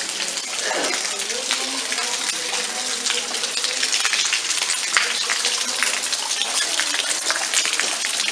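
Rain falling and water dripping from the roof edges: a steady hiss dotted with many sharp drips and splashes.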